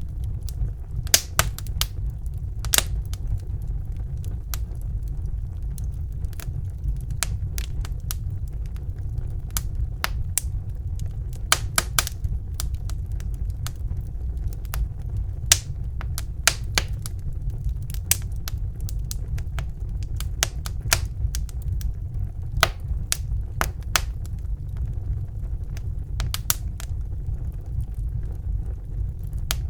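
Wood fire burning in a fireplace: a steady low whoosh of the flames with sharp, irregular crackles and pops from the burning wood, some in quick clusters.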